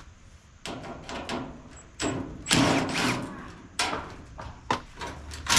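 Metal parts of a clothes dryer being worked loose during disassembly: a series of knocks and clatters, with a louder scraping rattle about two and a half seconds in.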